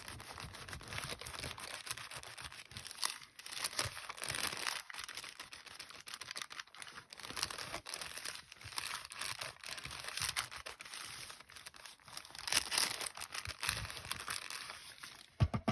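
Baking parchment crinkling and rustling as a hot iron is rubbed back and forth over it, pressing a decoupage napkin onto an ornament.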